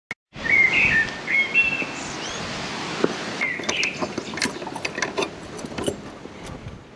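Birds chirping over a steady background noise, with scattered light clicks in the second half.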